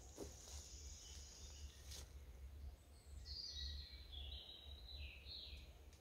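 Faint songbird calls: a short run of high chirping notes, several falling in pitch, about halfway through, over a low steady rumble of forest background noise. Two brief clicks come in the first two seconds.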